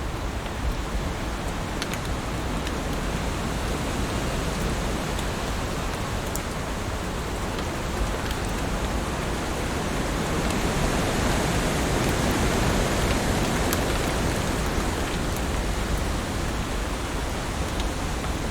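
Heavy rain falling steadily, with scattered sharp drop impacts, swelling a little louder and fuller about halfway through.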